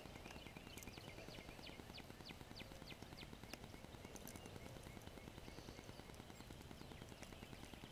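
Near silence with a small bird's faint chirps: a run of short, falling notes, about three a second, from about one to three and a half seconds in.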